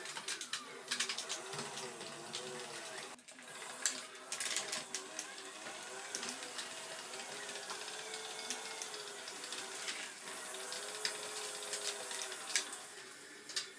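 Motors and gears of an RC model excavator whining as it works, the pitch rising and falling as the motors speed up and slow down. Scattered clicks and rattles come through over the whine.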